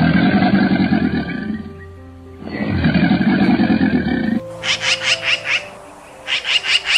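American alligator giving two long, low growling bellows of about two seconds each. About four and a half seconds in, they give way to European goldfinches twittering in quick bursts of high chirps.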